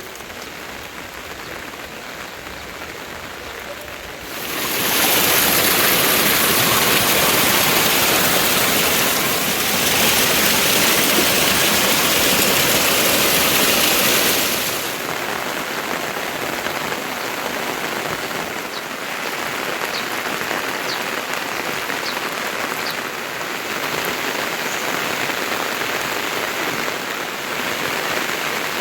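Steady rain falling. It grows heavier and louder about four seconds in, stays that way for about ten seconds, then eases back to a steadier patter.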